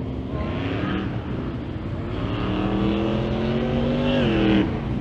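Car engine revving: the pitch rises briefly, then climbs steadily for about two seconds and gets louder, before the revs drop off sharply near the end.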